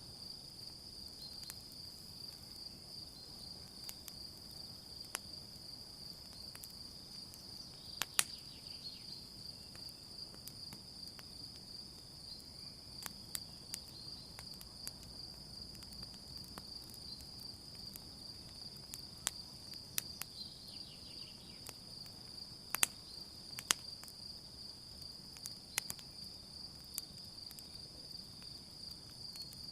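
Campfire crackling with irregular sharp pops of burning wood, a few louder ones standing out, over a steady high chirring of crickets.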